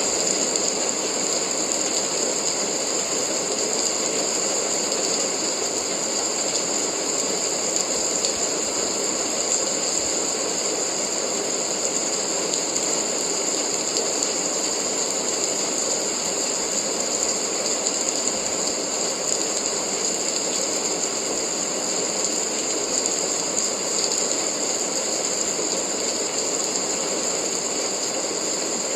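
Steady rain falling, an even, unbroken hiss of many small drops.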